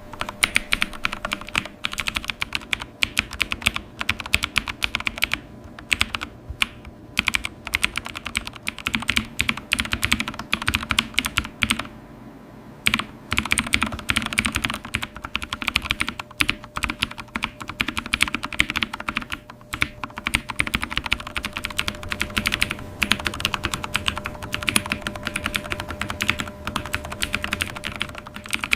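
Computer keyboard being typed on quickly and continuously, a dense run of key clicks broken by a few short pauses, the longest about twelve seconds in.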